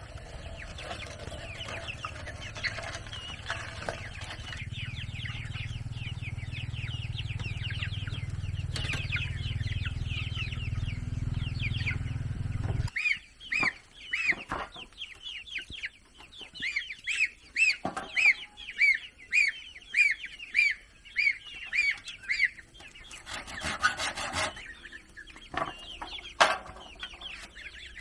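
Chickens calling with many short, high cheeping notes, coming about two a second through the second half. A steady low rumble underneath cuts off abruptly about halfway, and a few sharp knocks stand out.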